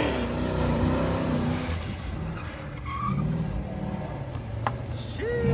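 A car's engine revving with tyres squealing as they spin, the engine note falling off about a second in and rising again briefly midway, with a short high squeal near the end.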